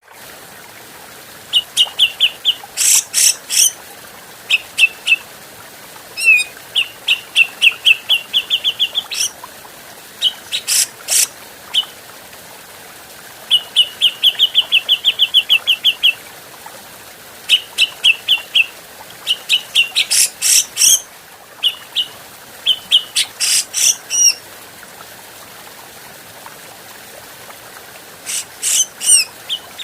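Grey-cheeked bulbul (cucak jenggot) singing: phrases of rapid repeated chattering notes, broken by loud sharp calls and short pauses, over a steady hiss.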